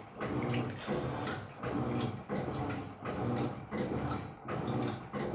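Electrolux LF75 top-loading washing machine agitating without the turbo function. The motor hums in short, even strokes about every 0.7 s as the agitator swings back and forth in the wash water.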